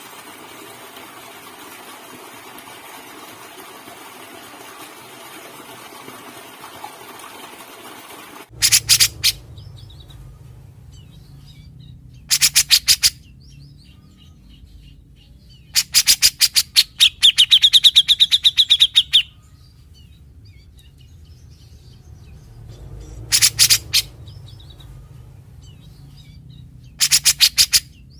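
Grey-cheeked bulbul (cucak jenggot) calling in five short bouts of rapid, harsh repeated notes, the longest bout about two thirds of the way in carrying a clearer arching whistle over the chatter. A steady hiss fills the first third before the bird starts.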